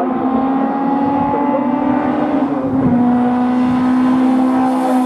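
Race car engine running hard at high revs, its pitch held nearly steady, dipping slightly about three seconds in.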